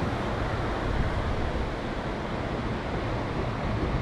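Berner Oberland Bahn train running along the valley track: a steady rumble and rush of wheels on rails and passing air.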